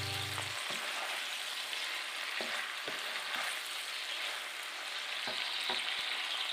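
Bok choy and cherry tomatoes sizzling steadily in a nonstick frying pan as they are tossed with wooden spatulas, with a few light knocks of the wood against the pan.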